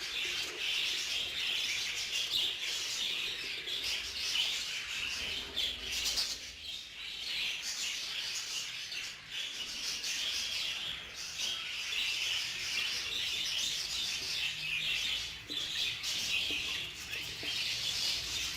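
Many budgerigars chirping and chattering at once, a continuous high twittering with a brief lull a few seconds in.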